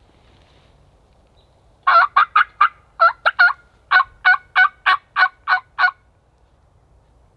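Turkey yelping: a loud series of about a dozen short yelps, roughly three a second, starting about two seconds in and lasting about four seconds.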